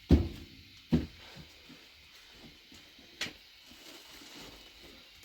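Two dull thumps about a second apart, then a sharper knock about three seconds in.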